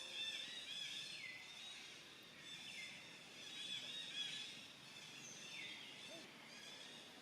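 Birds chirping, a faint run of high calls that includes several notes sliding downward.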